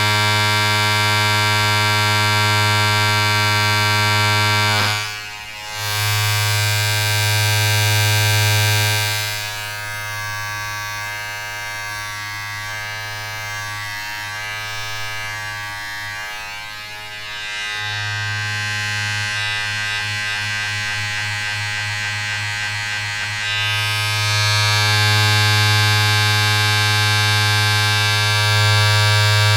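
Steady electric buzzing drone with a strong low hum and a dense stack of overtones. It dips briefly about five seconds in, turns quieter and rougher through the middle, then comes back full near the end.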